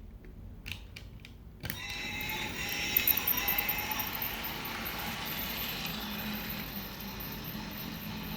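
A few faint clicks, then about a second and a half in a RailKing model steam train set starts running, a steady mechanical sound.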